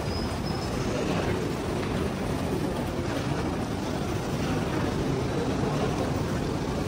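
Steady low rumble of a train running, with a brief faint high squeal about half a second in.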